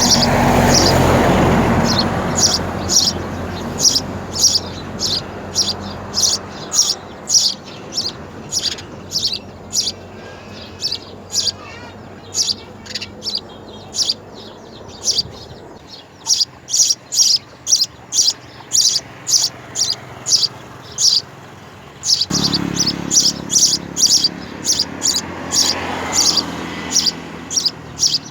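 Small birds chirping repeatedly at the nest: short high chirps, about two to three a second. A low rushing noise swells at the start and again from about 22 seconds in.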